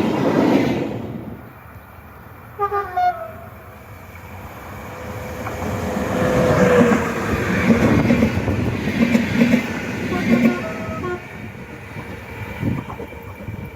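UTS610 passenger train running on the rails, its noise dying down over the first two seconds. About three seconds in the horn gives two short blasts, then the rail noise builds again, with more short tones from about nine to eleven seconds.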